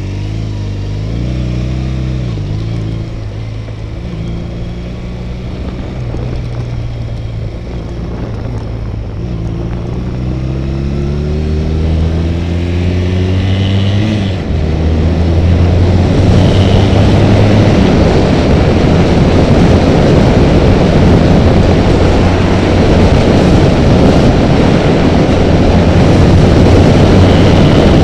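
Honda Rebel motorcycle engine pulling up through its revs with a rising pitch, a gear change about halfway through, then loud wind rush on the camera at freeway speed that covers the engine.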